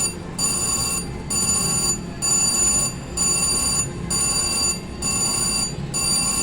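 VGT Mr. Money Bags slot machine sounding its bell-like win tone, a pulse of steady high ringing about once a second, after a big win.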